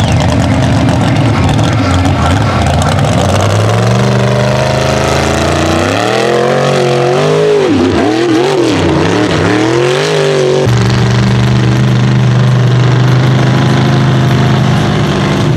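Mega mud truck's engine revving hard: its pitch climbs, then swings sharply up and down for several seconds before dropping suddenly back to a steady lower drone.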